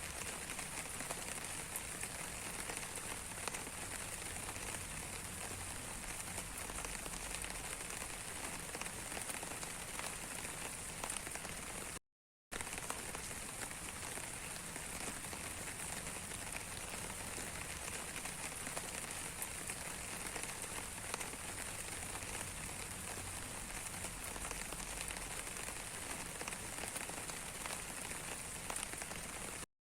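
Rain falling steadily on a surface: an even hiss of many small drops with fine individual ticks. The sound cuts out completely for under half a second about twelve seconds in, then resumes unchanged.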